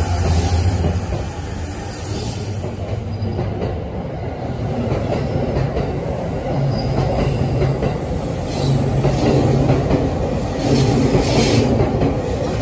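JR East E231 series 0 commuter electric train running past a station platform, its wheels rumbling steadily on the rails. Louder bursts of wheel and rail clatter come twice near the end.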